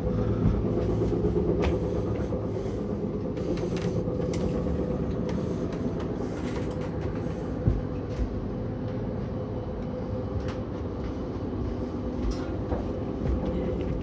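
Omnéo Premium NOMAD double-deck electric train running on the rails: a steady rumble with a constant hum, and a few sharp clicks from the track.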